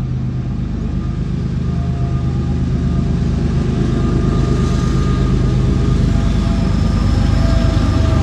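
A moving vehicle's engine and road noise: a steady low hum that grows gradually louder.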